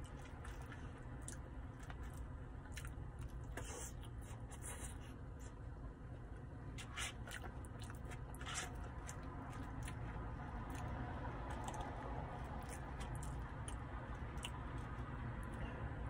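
A man chewing a mouthful of chili cheese fries, with a plastic fork picking at the food in a paper tray and scattered small clicks. A steady low hum runs underneath.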